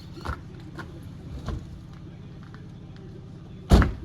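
A heavy truck wheel and tire being handled: a couple of light knocks, then one loud thump near the end as it is set down or bumped, over a steady low hum.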